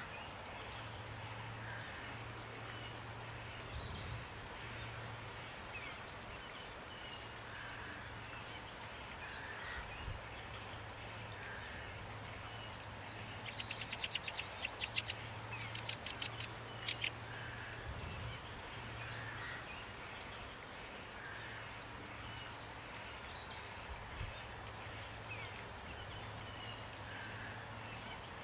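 Several songbirds chirping and whistling over a steady hiss of rain. About halfway through comes a rapid rattling trill, the loudest part. A faint low hum comes and goes underneath.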